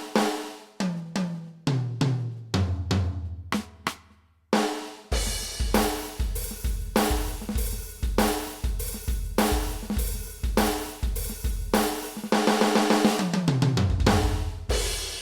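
Yamaha DTX720K electronic drum kit playing a preset from its DTX700-series module. A tom fill steps down from high to low toms, there is a short pause, then a steady groove of bass drum, snare and cymbals. Near the end another descending tom fill ends on a hit that rings out.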